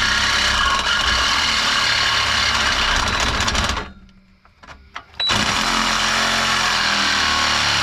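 Cordless Craftsman 20-volt saw cutting through a car's exhaust pipe, a loud, steady metal-cutting noise. It stops for about a second and a half just before the middle, with a few clicks, then starts cutting again.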